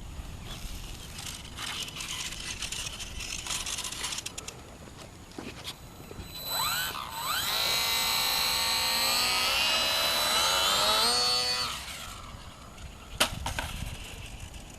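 Electric motor and propeller of a HobbyZone Carbon Cub S2 RC airplane whining for about five seconds in the middle, its pitch sliding up and down with the throttle. Softer rustling and a few clicks come before it and near the end.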